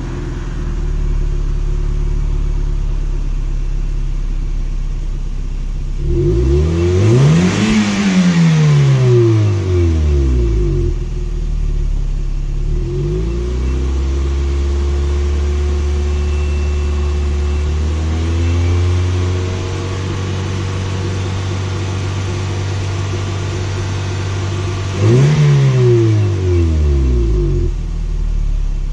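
2006 Scion xB's 1.5-litre four-cylinder engine heard through its exhaust, idling and being revved: a quick rev up and back down about seven seconds in, then held at steady raised revs from about thirteen seconds, stepping higher near eighteen seconds, and falling back to idle about twenty-five seconds in.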